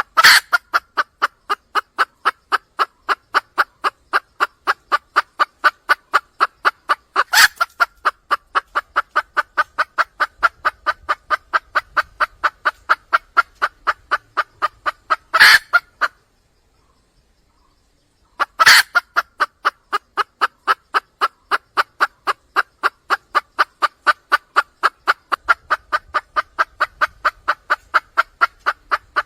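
Red junglefowl hen calling to attract a male: a fast, even run of short clucks, about three or four a second, with a louder note every several seconds. The run breaks off for about two seconds past the middle, then resumes.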